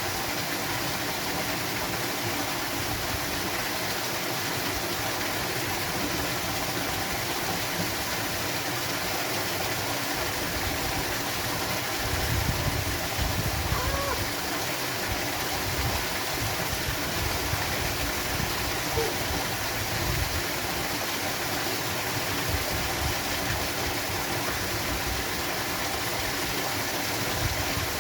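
Steady rush of a waterfall and its flowing water, with a few brief low rumbles around the middle.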